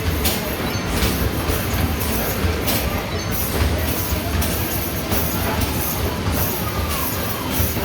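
Basketballs rolling down the return ramp of an arcade basketball machine, a steady low rumble, with irregular thuds of balls striking the backboard and rim.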